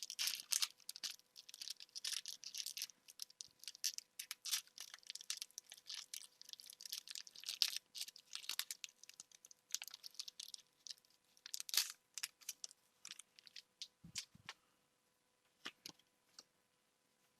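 Foil booster pack wrapper crinkling and tearing as it is opened and handled: dense crackling for about twelve seconds, then a few scattered light clicks and taps.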